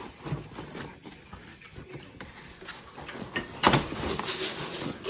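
Packaging being handled while a robot vacuum is unboxed: scattered light clicks and knocks, a sharp knock about two thirds of the way through, then a second or so of rustling.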